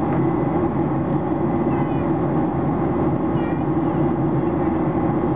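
Steady cabin roar inside a Boeing 737-800 in flight, the sound of its CFM56 jet engines and the airflow over the fuselage, with a strong low hum. Faint voices come through briefly twice.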